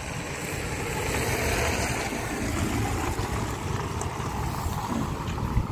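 Strong gusty wind rushing and buffeting the microphone with a low rumble, swelling about a second or two in.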